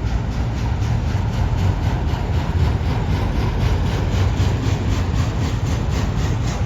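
Heavy engine running: a steady low rumble with a faint, even beat of about three or four pulses a second.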